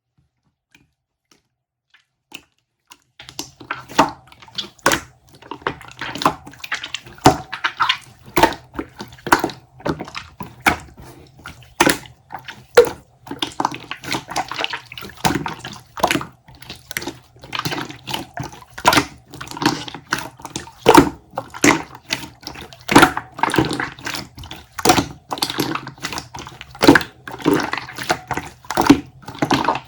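Wet, sticky clicking and popping: many quick irregular snaps, starting about three seconds in, over a faint steady low hum.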